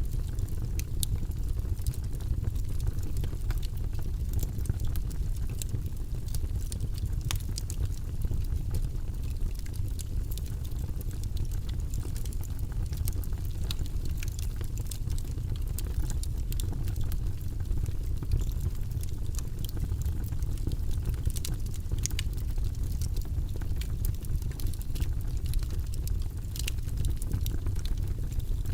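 Wood logs burning in a fireplace, crackling with many irregular sharp pops over a steady low rumble of the flames.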